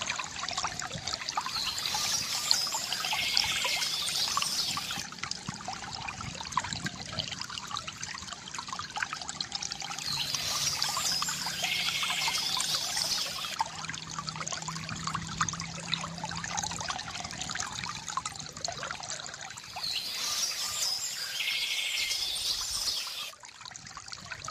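Water trickling and gurgling from a bamboo fountain, swelling into a louder pouring surge three times, about every nine seconds.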